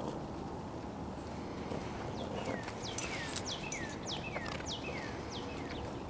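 A bird calling: a run of about nine clear notes, each sliding down in pitch, about three a second for some three seconds, over faint outdoor background.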